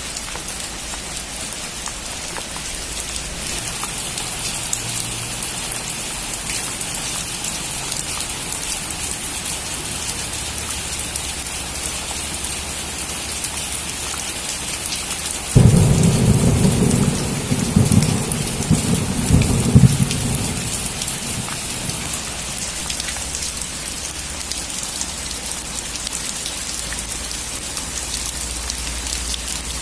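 Steady rain with a clap of thunder about halfway through: it breaks in suddenly, rumbles with a few louder peaks for about five seconds, then fades back under the rain.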